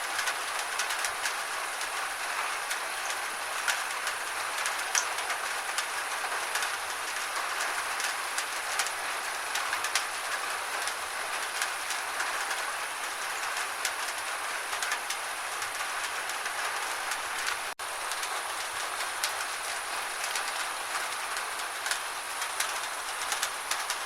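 Gentle steady rain falling, an even hiss dotted with the ticks of single drops. The level holds constant, apart from a split-second dropout about eighteen seconds in.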